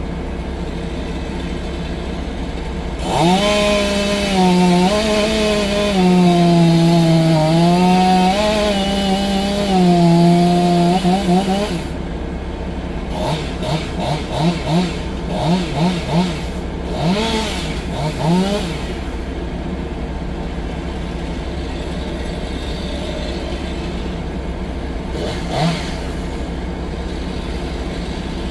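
Tracked skid steer's diesel engine running steadily, with a chainsaw cutting wood over it for several seconds from about three seconds in, then revving in a series of short blips.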